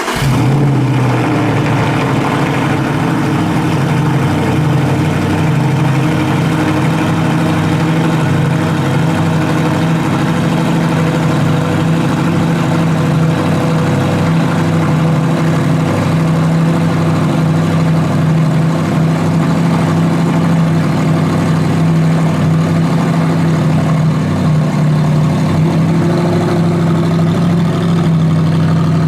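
V8 engine running at a steady speed, a loud, even drone with no revving.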